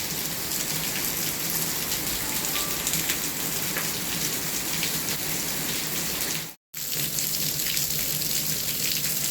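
Steady rain falling and pattering on a surface, many small drop ticks in an even hiss, broken by a brief cut to silence about two-thirds of the way through.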